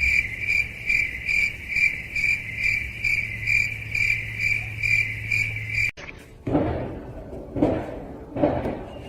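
A high, evenly pulsed chirping, about two to three chirps a second, that stops abruptly about six seconds in. After it come a few soft knocks or scuffs.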